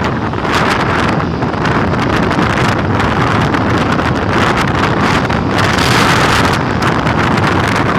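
Strong gusting wind buffeting the microphone: a loud, continuous rush that swells briefly a few seconds in.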